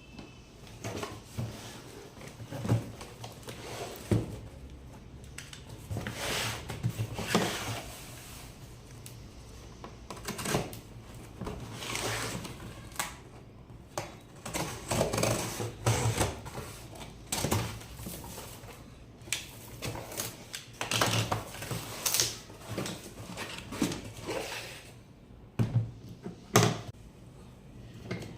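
Irregular clicks, knocks and rustling as an impact wrench kit is unpacked, with packaging and a plastic carry case handled and set down, over a steady low hum.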